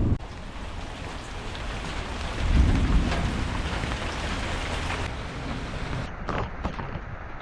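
Rain falling steadily, with a brief low rumble about two and a half seconds in and a few sharp taps near the end.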